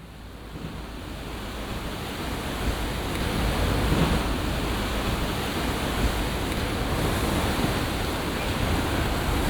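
Storm waves surging and breaking against a sea wall, with wind noise on the microphone: a steady rush of surf that fades in over the first few seconds.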